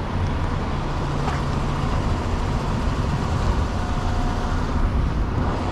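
Semi truck's diesel engine running steadily, a low even rumble heard from the cab, with a faint steady whine joining about four seconds in.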